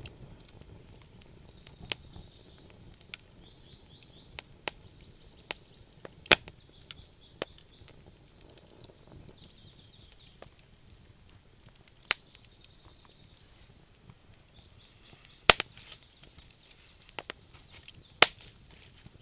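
Wood fire burning in a stove, crackling: irregular sharp pops, the loudest about six and fifteen seconds in, over a faint steady hiss.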